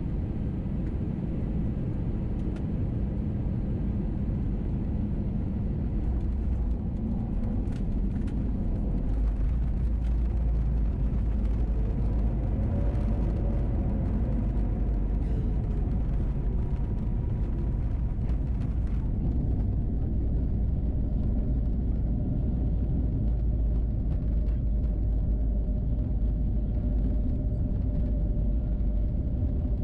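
Steady low rumble of an Airbus A321neo's engines and airflow heard from a window seat inside the cabin. A faint tone rises and falls midway, and the higher hiss drops away about two-thirds of the way through.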